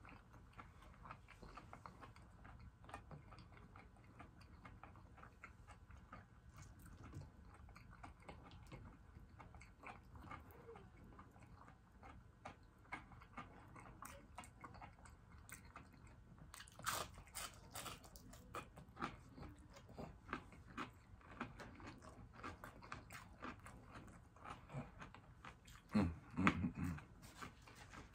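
Close-miked chewing of crispy fried butterfly shrimp and fish: many small crunches and mouth sounds, thicker about two-thirds of the way in and again near the end.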